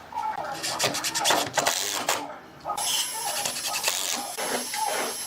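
Wood being rubbed and rasped by hand in quick repeated scratchy strokes, like sanding or filing, with a short pause a little after two seconds in. A thin high-pitched whine runs from about halfway through.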